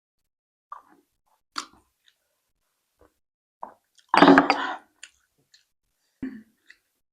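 Close-up eating sounds: short wet mouth smacks and chewing, with one louder, noisy burst of biting and chewing about four seconds in.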